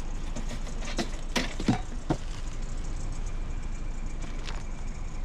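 A vehicle engine idling steadily, with four or five sharp knocks and clatters about one to two seconds in.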